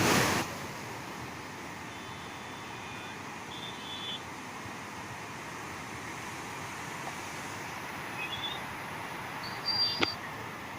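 Floodwater rushing steadily, a constant hiss of flowing water, after a brief loud noise at the very start. A few short high chirps sound over it, near the start and again near the end.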